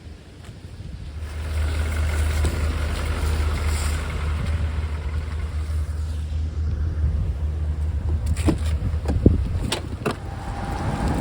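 A motor vehicle running, with steady low engine and road rumble that rises about a second in and then holds, and a few sharp clicks near the end.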